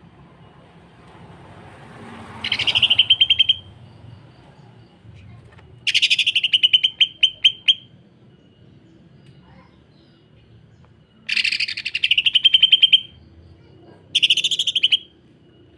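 Green leafbird (cucak ijo) giving four bursts of rapid, harsh rattling chatter, the close-set 'sewing machine' rattle; the second burst slows into separate pulses at its end.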